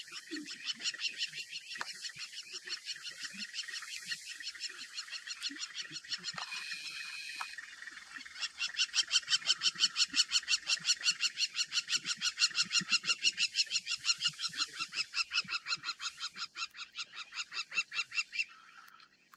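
A bird calling in a fast run of repeated high notes, several a second, growing louder about eight seconds in and stopping shortly before the end.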